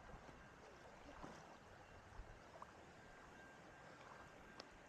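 Near silence: faint steady background noise, with a small click near the end.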